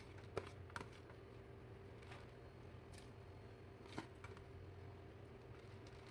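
About half a dozen faint, sharp clicks and taps of kitchen utensils, spaced irregularly, over a steady low hum.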